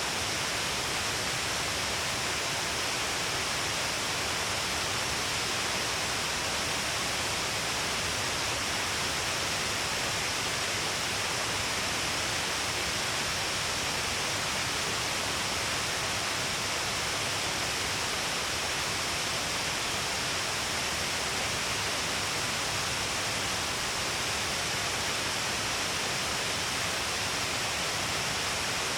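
Shiraito Falls, water pouring in many strands along a long cliff face, making a steady, unbroken rush.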